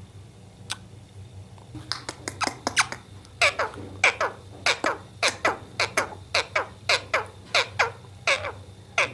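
Pet parrot squawking: a rapid series of short calls falling in pitch, about two a second, starting about two seconds in after a single call.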